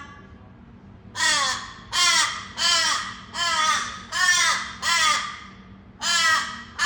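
A bird calling over and over: seven short, loud calls, each falling in pitch, about three-quarters of a second apart, with a longer pause before the last.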